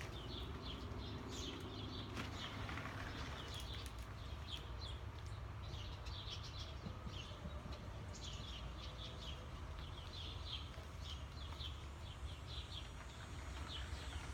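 Small birds chirping in quick, repeated short calls, faint, over a low steady background rumble.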